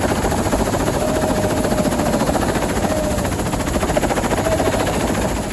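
Tour helicopter running loud, its rotor beating in rapid, even pulses over a steady engine noise, with a faint whine held near the middle.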